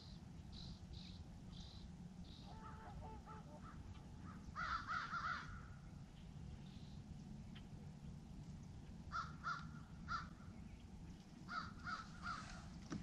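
Faint bird calls in short runs of several notes, about five seconds in, again around nine to ten seconds, and near the end, over a low steady rumble.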